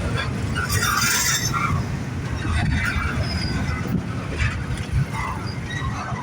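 Double-stack intermodal freight train rolling past: a steady low rumble of wheels on rail, with a brief high-pitched wheel squeal about a second in.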